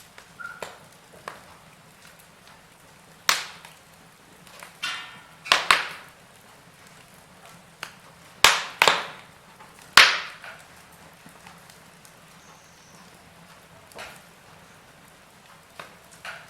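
Wood fire in a fireplace crackling, with sharp pops at irregular intervals, the loudest clustered in the middle, over a faint steady hiss.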